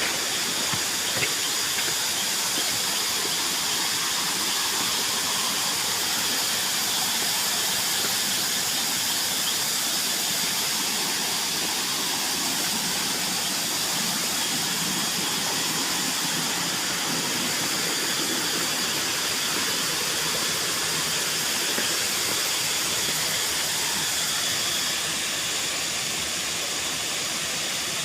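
Waterfall rushing steadily, with a constant high-pitched drone of many cicadas over it. It eases off slightly near the end.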